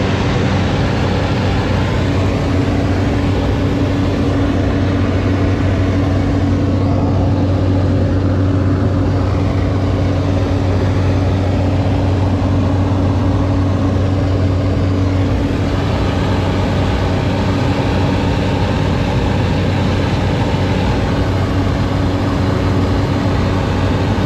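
Seaplane's engine running steadily, heard loud from inside the cabin as a constant low drone over dense noise.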